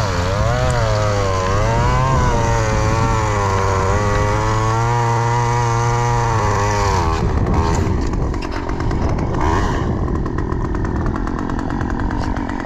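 Chainsaw engine running at part throttle with a wavering pitch, then from about seven seconds in a rougher, fast rattle as the saw cuts into a log lying across the trail.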